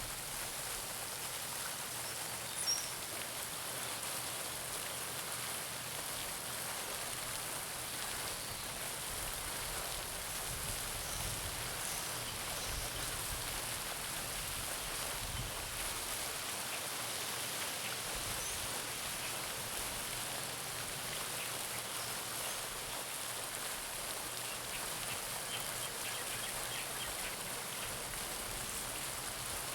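Garden pond fountain splashing steadily, a continuous hiss of falling water on the pond surface. A few faint bird chirps, one sharper about three seconds in and several near the end.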